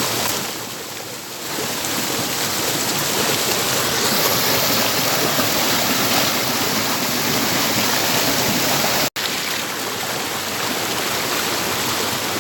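Steady rush of a waterfall and river water. It cuts out for an instant about nine seconds in.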